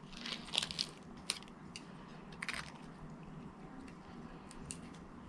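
Plastic honey mustard dipping cup being cracked open: scattered soft crackles and clicks of the lid, the loudest about two and a half seconds in.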